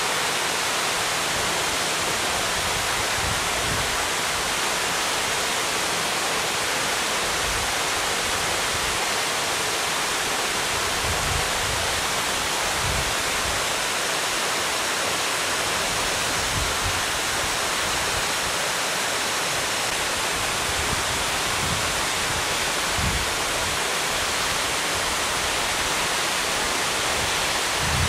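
Waterfall plunging into its pool: a steady, dense roar of falling water with occasional low rumbles.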